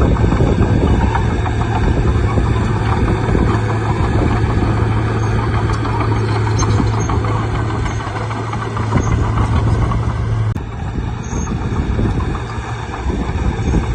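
Bulldozer's diesel engine running with a steady low hum and rough mechanical noise. About ten seconds in, the hum stops abruptly at a sharp click and the engine noise carries on rougher.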